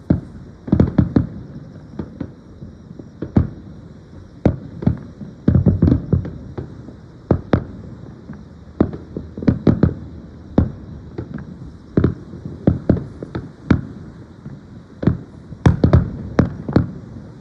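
Aerial fireworks bursting, a steady run of sharp booms and bangs at irregular intervals, some in quick clusters, each followed by a low rumble.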